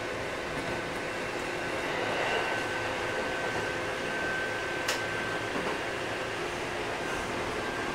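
Inside a Kintetsu 8000-series electric train car: steady noise with a steady high tone over it. One sharp click comes about five seconds in.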